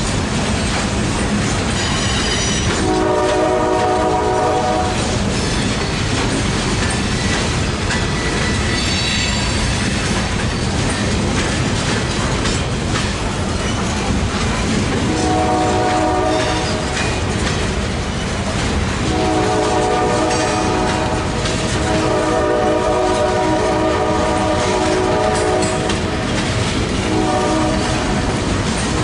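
Loaded coal hopper cars rolling past with a steady rumble and wheel clatter over the rail joints, with brief high wheel squeals twice in the first ten seconds. A multi-chime locomotive horn sounds about three seconds in, again around fifteen seconds, then in longer blasts from about nineteen seconds until near the end.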